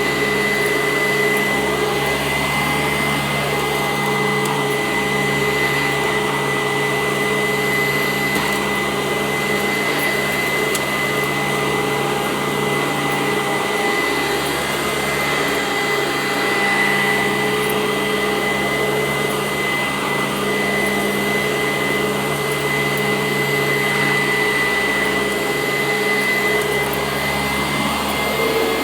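Sanitaire SC886 upright vacuum running steadily while vacuuming carpet. Its motor gives a constant high-pitched whine over the rush of air.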